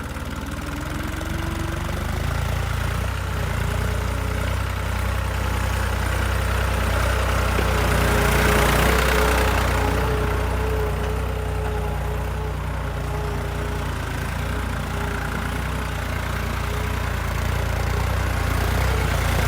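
Tractor engine running steadily at low revs, with a broad rushing swell about halfway through.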